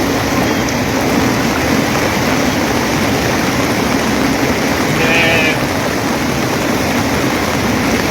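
Steady, loud rushing noise of water, with a brief pitched call about five seconds in.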